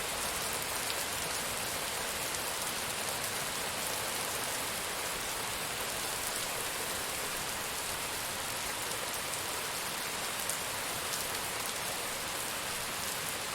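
Steady rain falling, an even hiss of rain on surfaces with faint individual drop ticks.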